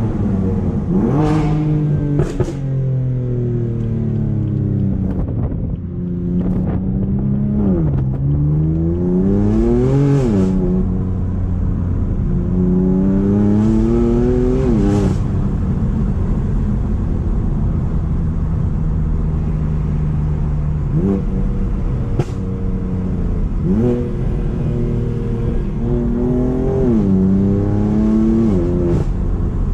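Tuned BMW M4's twin-turbo straight-six running through a decatted Akrapovic straight-pipe exhaust, pulling hard up through the gears. The pitch climbs, then drops sharply at each upshift, with sharp cracks at several shifts. It settles to a steady cruise in the middle before accelerating again.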